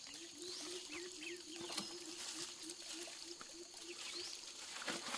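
Birds chirping outdoors, with a low call pulsing steadily a few times a second underneath.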